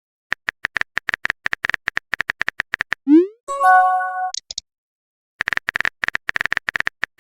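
Phone on-screen keyboard clicks tapping out a message in quick runs, then a short rising swoosh as the message is sent and a bright multi-tone chime of an incoming message, followed by another run of key clicks.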